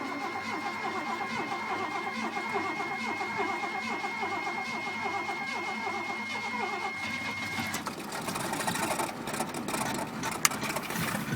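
Pickup truck engine cranking over on its starter at about three strokes a second, with a steady high whine, as a cold start after sitting unstarted for a year. After about eight seconds it catches and begins to run roughly.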